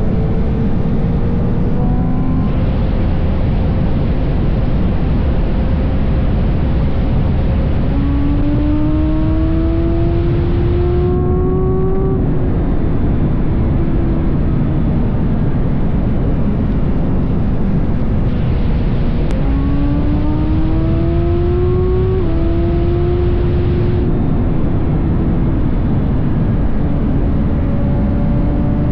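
BMW S1000RR's inline-four engine pulling under way, its pitch climbing steadily and dropping back at gear changes, under heavy wind rush on the microphone.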